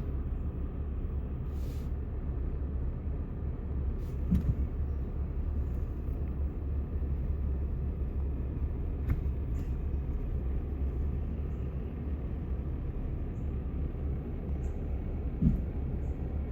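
Steady low rumble of a truck driving, engine and road noise. Two brief short squeaks come about four seconds in and again near the end.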